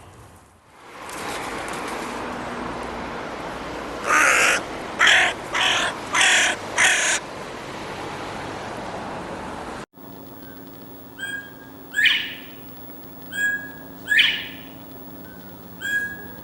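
Bird calls: five loud, harsh calls in quick succession over a steady rushing background. After an abrupt cut comes a different series of short calls, each a brief note ending in a falling sweep, roughly one a second.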